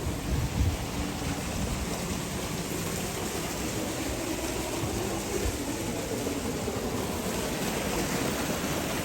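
Steady rushing wind noise, with gusts thumping against the microphone during the first second.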